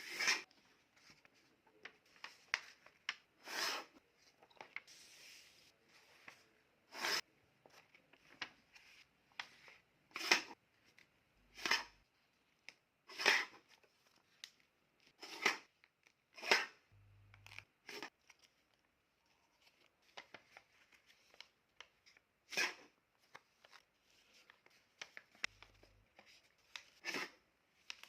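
A sheet of paper being handled, folded or cut, giving a dozen or so short, sharp crackles at irregular spacing a second or more apart.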